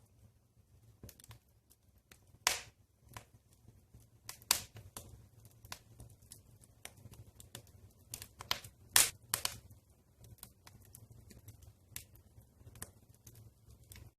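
Wood fire burning in a fireplace, crackling with irregular snaps and pops, a few louder pops scattered through.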